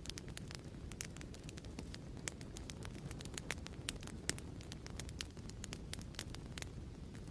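Fireplace crackling: irregular sharp pops and snaps over a steady low rumble of burning logs.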